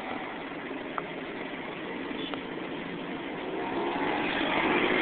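Steady rushing rumble of a train drawing near the level crossing, growing louder over the last couple of seconds.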